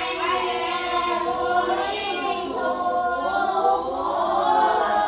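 A class of schoolchildren reciting an English sentence together in unison, in a drawn-out, sing-song chant.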